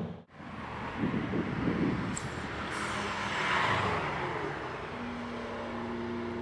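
Big single-turbo BMW 335i Touring accelerating past, its turbocharged straight-six loudest as it goes by about three to four seconds in. It then settles into a steadier engine note as the car pulls away.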